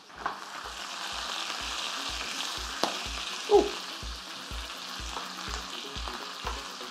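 Spring onions, dried red chillies and Szechuan peppercorns sizzling steadily in very hot oil in a wok, stirred with a spatula, with a couple of sharp clicks.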